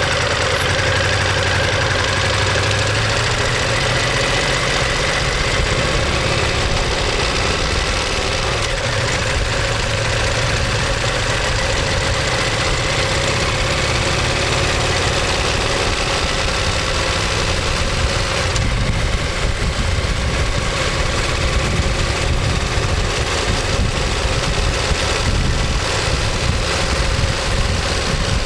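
Ducati Monster 1200S V-twin engine running steadily through its exhaust. Its pitch rises slightly over the first few seconds, then holds.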